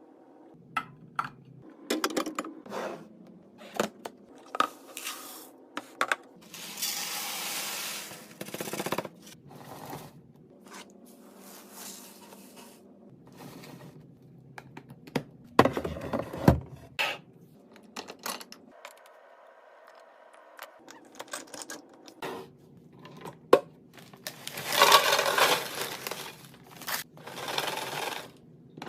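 Food and containers being handled and put away: sharp taps, clicks and clatters of small hard items and lids, with scraping. Two longer rustling or pouring stretches come about a quarter of the way in and again near the end.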